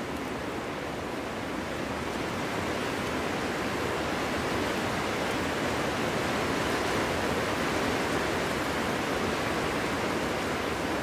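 Winter wind blowing through a forest: a continuous, even rushing noise with no distinct gusts, growing slightly louder toward the middle.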